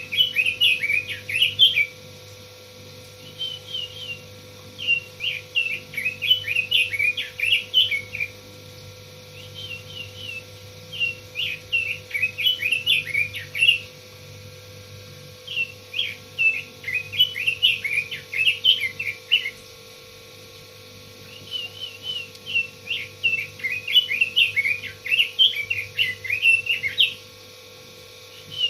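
Pekin robin (red-billed leiothrix) singing in repeated bouts of fast, varied warbling phrases, each a few seconds long with short pauses between, over a faint steady hum.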